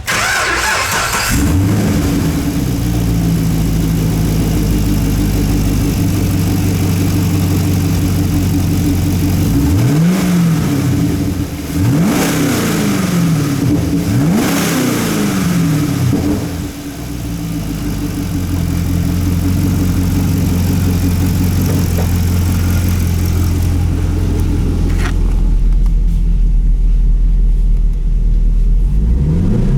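2014 Camaro SS 6.2-litre L99 V8 starting and settling into a steady idle, then revved four times in quick succession, each a short rise and fall in pitch, before returning to idle, with another blip of the throttle at the very end.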